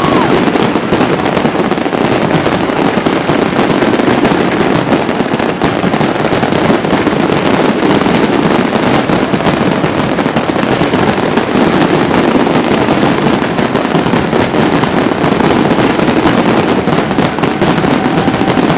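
Fireworks display in full barrage: dense, overlapping bangs and crackles with no pause.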